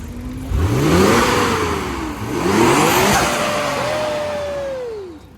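Car engine revved hard twice, its pitch climbing steeply each time over a loud exhaust roar. It then holds a note that drops and fades out near the end.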